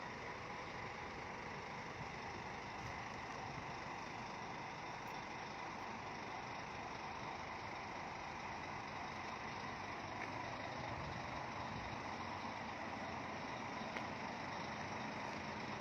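A vehicle engine idling steadily, faint.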